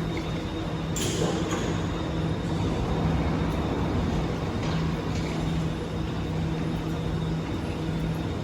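Electric MRT train running at an elevated station: a steady hum with a few steady tones, and a short hiss about a second in.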